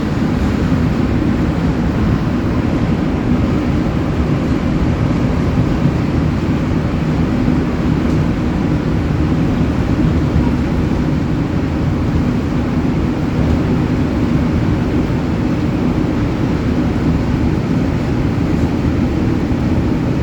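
Montreal MR-73 rubber-tyred metro train running at speed between stations, heard from inside the car: a loud, steady, deep rumble with no change in pace.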